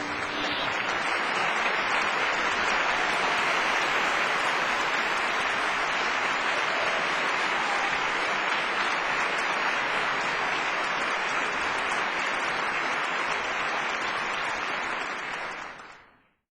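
Audience applause, steady and even, fading out about fifteen seconds in.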